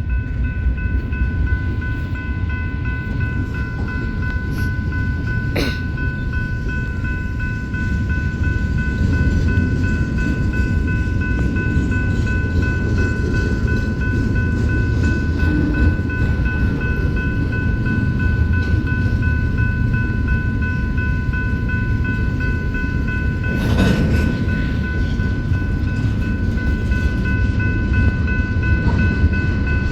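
Freight train of double-stack container cars rolling past: a steady low rumble of the wagons that grows louder about eight seconds in, with a steady high whine over it and two sharp knocks.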